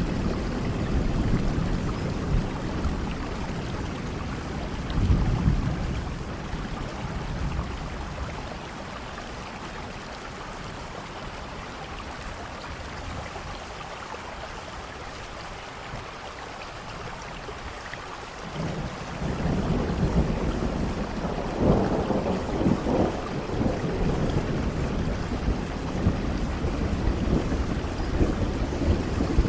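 Steady rain with rolling thunder. Rumbles at the start die down to rain alone through the middle, then a new thunder roll builds about two-thirds of the way in and rumbles on to the end.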